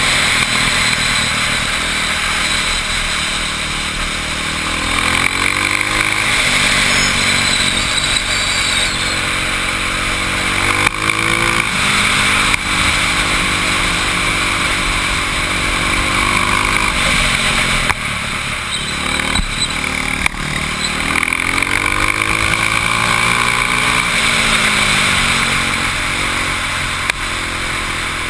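Motorcycle engine heard from an onboard camera while lapping a circuit, its pitch climbing and dropping several times as the rider accelerates out of and slows into corners. Steady wind rush on the microphone runs under it.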